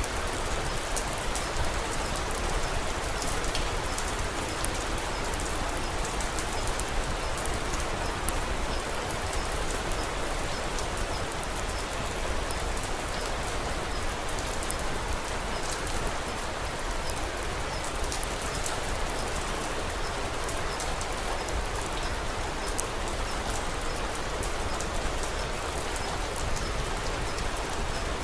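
Steady rain falling, an even hiss with many small, sharp drop ticks scattered throughout.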